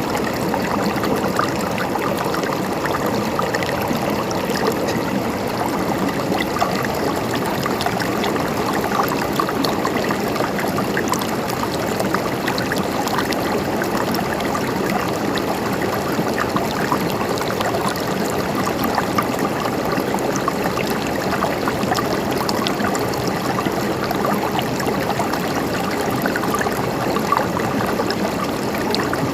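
Water trickling and gurgling steadily, an even babble of running water.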